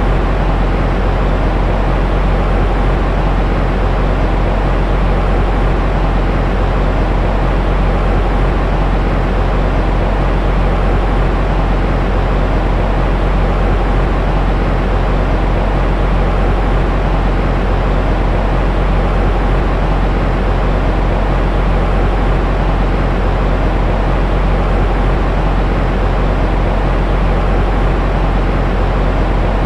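Steady, unbroken white noise for soothing a baby, heavy and rumbling at the low end with the hiss thinning out toward the top.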